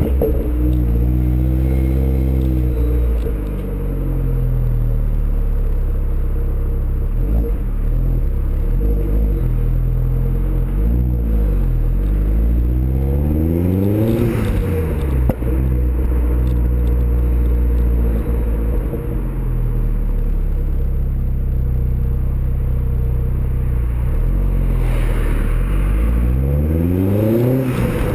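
Vauxhall Zafira VXR's turbocharged 2.0-litre four-cylinder running through a custom exhaust, idling and revved several times: a short rev near the start, quick blips about eleven seconds in, a higher rev around fourteen seconds, and another rising rev near the end.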